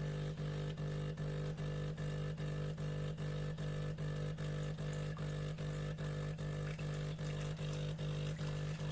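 De'Longhi Dinamica Plus espresso machine running its automatic start-up rinse: a steady pump hum that pulses evenly about three times a second.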